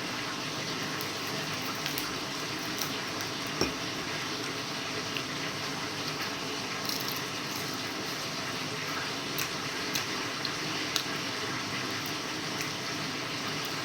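Someone eating a meal of fried chicken and vegetables: scattered small clicks of cutlery and dishes over a steady hiss.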